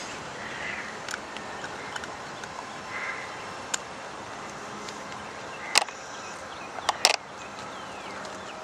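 Steady outdoor background noise with birds chirping, and a few sharp clicks or knocks, the loudest a pair about six and seven seconds in.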